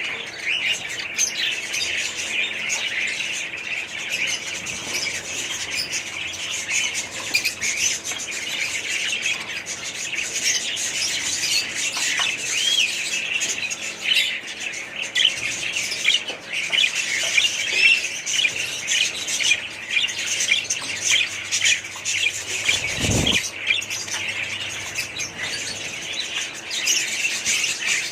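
A large crowd of budgerigars and other small parrots chirping and squawking together in a continuous chatter, with a single dull thump about three quarters of the way through.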